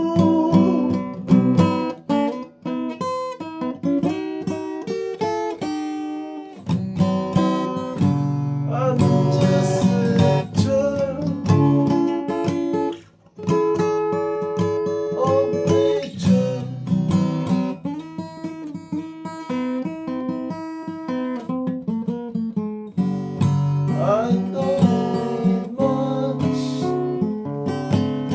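Music: acoustic guitar playing, plucked and strummed, with breaks about two and a half seconds in and again about thirteen seconds in.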